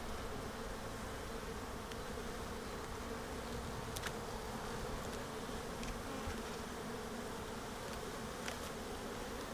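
Steady hum of many honeybees buzzing around an open hive, with a few faint clicks from the hive frames being handled.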